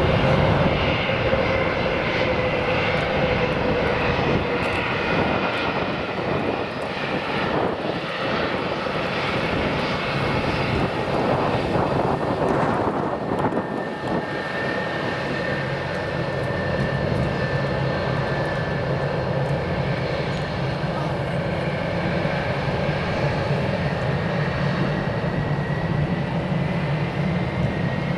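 Airliner engines running steadily with a whining tone that rises slightly near the end.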